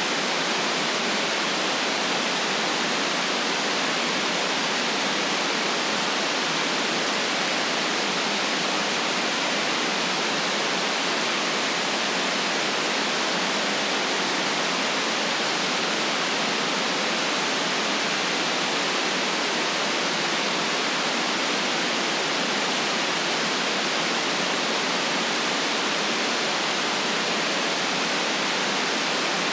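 Steady white noise: an even, unchanging hiss with no rhythm, tones or breaks.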